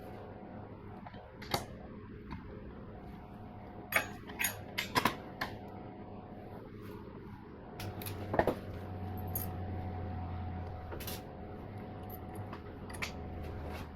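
Scattered sharp clicks and knocks of metal parts and hand tools being handled during motorcycle assembly, with a cluster of knocks around five seconds in. A low steady hum starts about eight seconds in.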